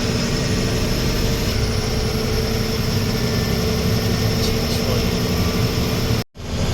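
Loaded lorry's diesel engine running with road noise at steady cruising speed. The sound cuts out sharply for a moment near the end.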